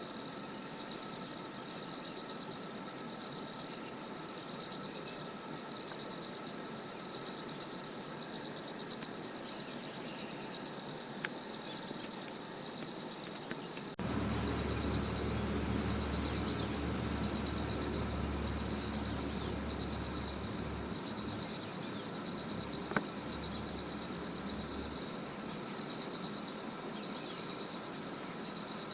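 Forest insect chorus: a steady, pulsing insect trill, with a second, higher-pitched insect chirping in short, regular pulses above it. About halfway through a low rumble comes in and lasts for around ten seconds.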